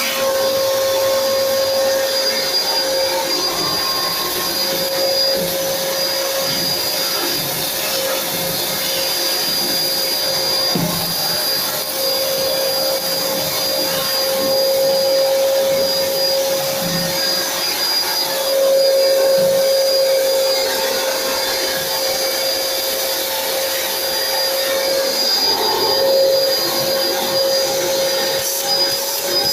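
Phantom vacuum cleaner with a newly fitted 2000-watt motor running steadily: a constant rush of air with a steady motor whine over it, as the repaired machine's suction is tested.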